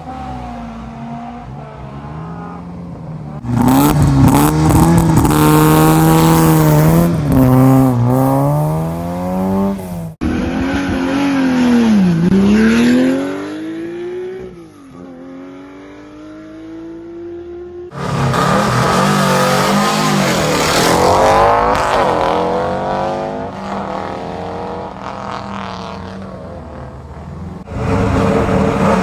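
A run of classic rally cars launching hard from a stage start, one after another: a Fiat Uno 70S, a Porsche 911 Carrera RS Gr.4 and a Subaru Legacy RS Turbo Gr.A. Each engine revs up and drops back through quick gear changes, and each car's sound is cut off abruptly as the next one begins.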